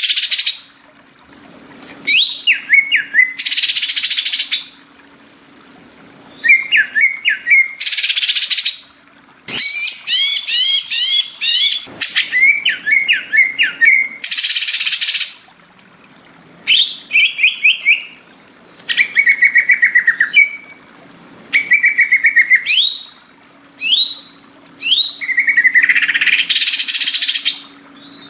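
Green leafbird (cucak ijo) singing loudly in bursts of varied phrases: repeated whistled notes, fast sweeping trills and harsh chattering, each phrase a second or two long with short pauses between.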